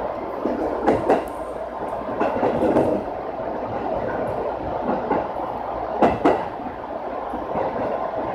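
Electric commuter train running slowly out of a station, heard from the driver's cab: a steady rumble of motors and wheels, with sharp wheel clacks over rail joints and points, a pair about a second in and another pair about six seconds in.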